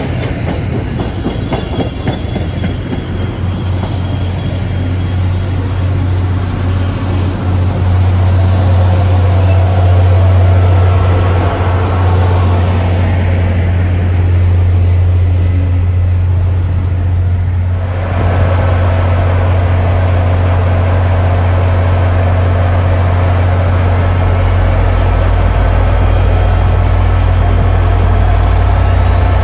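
Diesel MBTA commuter train running by, a loud steady low drone of engine and rolling cars. About 18 seconds in the sound dips briefly, then comes back with added steady tones, and from about 24 seconds a deeper engine rumble joins in.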